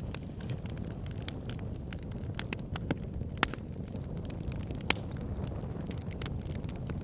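Wood fire burning in a fireplace: a steady low rumble of flames with constant crackling and scattered sharp pops from the logs, two louder pops a little before and just after the middle.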